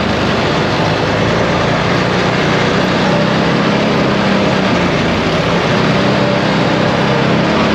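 ATV engine running steadily, with a constant drone and a noisy wash over it.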